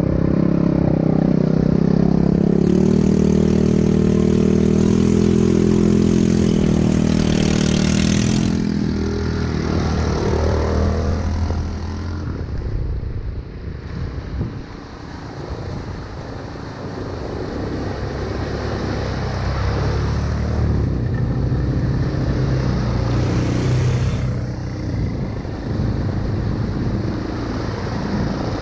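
ATV engine running under way, steady and strong at first. About a third of the way in it eases off, then picks up again.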